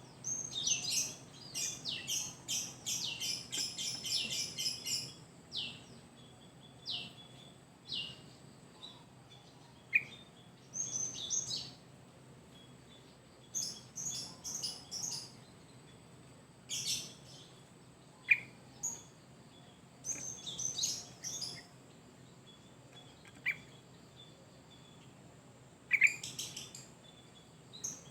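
Yellow-vented bulbul (trucuk) singing actively: a dense run of quick, high chirping notes in the first few seconds, then shorter bursts of chirps and single downward-sliding whistles separated by pauses of a second or more.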